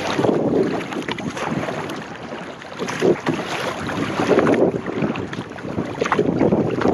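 Kayak paddle strokes dipping and splashing in the water, with the swishing of water around the hull and wind buffeting the microphone.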